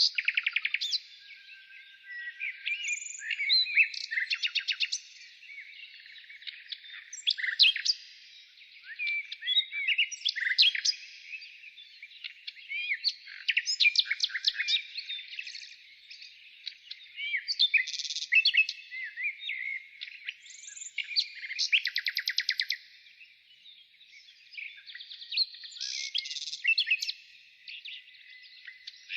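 Songbirds chirping and singing in overlapping phrases, with quick rattling trills of evenly spaced notes coming every few seconds between shorter chirps.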